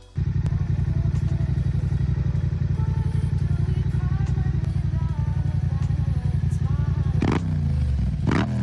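Yamaha YZF-R7's parallel-twin engine idling steadily with a pulsing low note, then revved twice near the end, the pitch rising and falling with each blip of the throttle.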